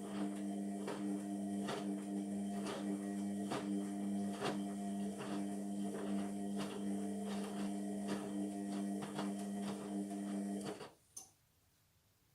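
Indesit MTWC71252WUK washing machine turning its drum during the wash: a steady motor hum with a string of clicks and knocks, cutting off abruptly about eleven seconds in as the drum stops.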